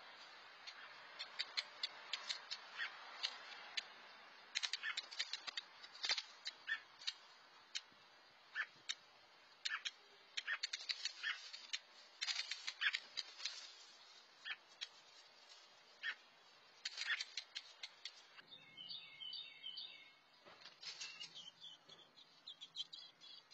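Bird sounding sharp, irregular alarm chips, several a second at the busiest, while a squirrel raids its nest.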